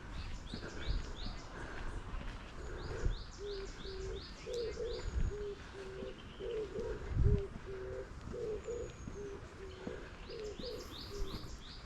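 Birdsong in a forest. A small songbird sings three quick runs of high, falling notes: at the start, around three to four seconds in, and near the end. Through the middle a dove coos in a steady, low, repeated phrase, over a few soft footstep thuds.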